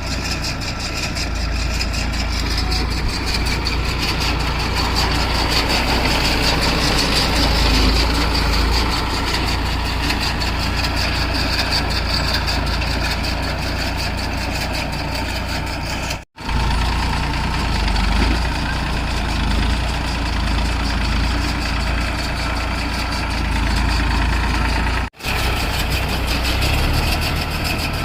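New Holland 3230 NX tractor's three-cylinder diesel engine running steadily under load, with a continuous mechanical clatter and hum. The sound cuts out for an instant twice, about two-thirds of the way in and again near the end.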